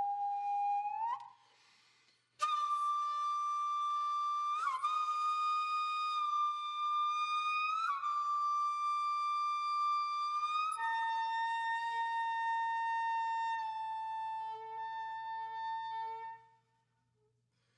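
Background music: a solo wind instrument playing slow, long held single notes with small pitch bends. After a short pause, one long note gives way about halfway through to a lower note that fades out near the end.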